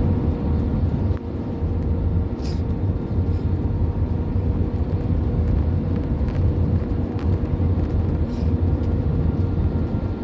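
Airbus A320 cabin noise in flight: a steady low rumble of engines and airflow, with a faint steady hum over it.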